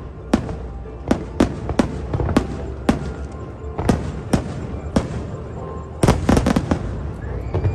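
Aerial fireworks shells bursting in sharp bangs, about two a second, then a rapid cluster of bangs about six seconds in.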